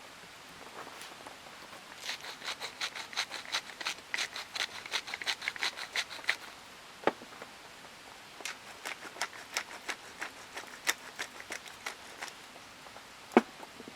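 Knife chopping rapidly on a cutting board, about five chops a second, in two runs, with a couple of single louder knocks between and after them.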